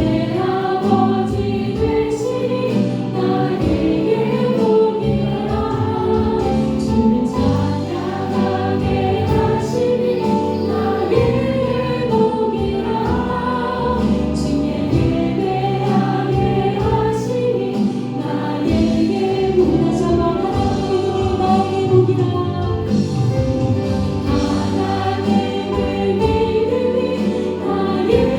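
Worship team and congregation singing a Korean contemporary worship song together, with instrumental accompaniment.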